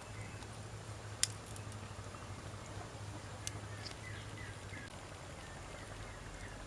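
Wood fire crackling, with a few sharp isolated pops, the loudest about a second in and another midway, over a steady low hum.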